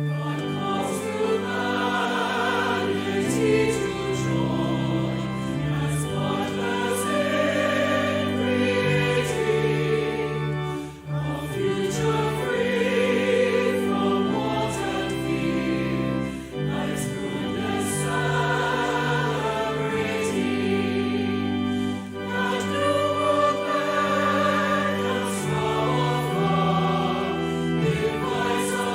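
Choir singing with sustained instrumental accompaniment, in phrases with short breaks between them.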